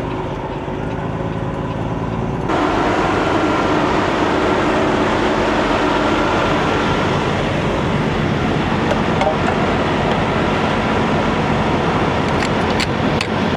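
Semi truck's diesel engine running steadily, heard from the cab. About two and a half seconds in, the sound steps up suddenly to a louder, fuller rumble that holds, with a few sharp clicks near the end.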